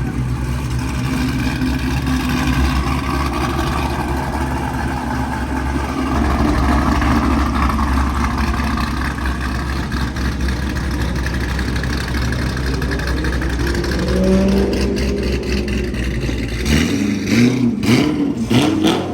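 Mercedes CLS 63 AMG V8 with a Weistec exhaust running with a steady deep drone and some throttle changes. The drone drops away about three seconds before the end, followed by a few sharp clatters.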